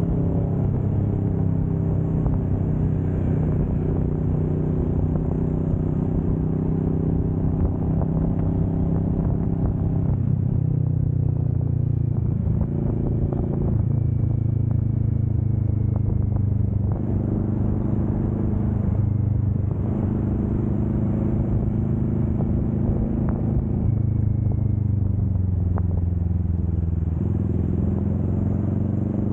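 Kawasaki Vulcan S 650's parallel-twin engine running steadily under way on the highway, its note stepping down and back up several times as the speed or gear changes.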